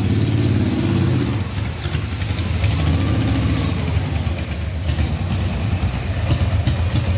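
Mazda B600's engine idling steadily.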